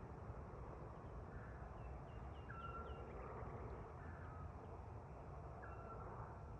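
Birds calling over a steady low rumble: short whistled notes held at one pitch, repeating about every three seconds, with a quick run of faint higher chirps about two seconds in.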